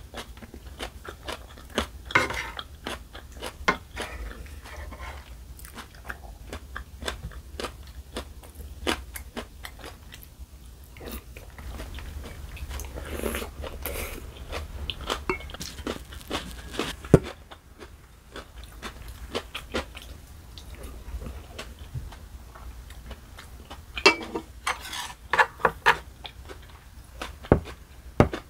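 Close-miked chewing and crunching of a mouthful of spicy tuna bibimbap, with wet mouth sounds and many irregular small clicks; a few louder crunches come about two seconds in, once in the middle, and several near the end.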